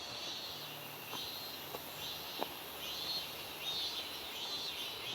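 Outdoor mountain ambience with repeated high, buzzy chirps from wild creatures, one every half second to a second, and a few sharp clicks, the loudest about halfway through.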